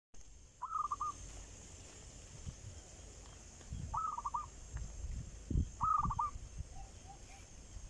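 A bird calling three times, each call a quick run of three or four notes, with low thumps of footsteps on a dirt track.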